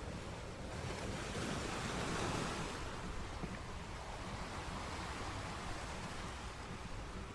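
Sea surf: a wave swells and breaks about a second in, then settles into a steady wash of water on the shore.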